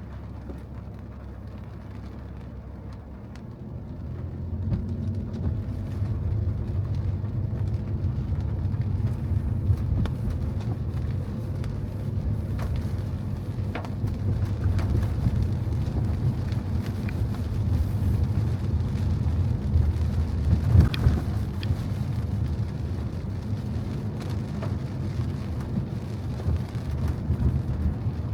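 Car driving on rain-wet streets: a low rumble of engine and road noise with rain, growing louder about four seconds in.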